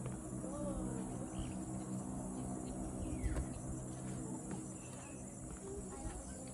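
Faint, steady high-pitched drone of insects in the background, with a few faint short chirps.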